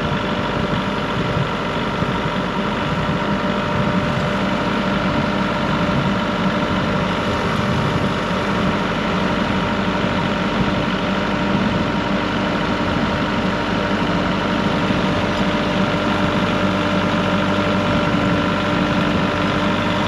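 A vehicle engine idling steadily under a constant, even whine, with no change in pitch or level throughout.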